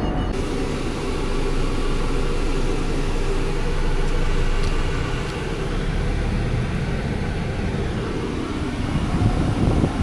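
Scania R500 truck running: the 13-litre inline-six diesel and vehicle noise make a steady, loud low drone with a faint steady tone above it.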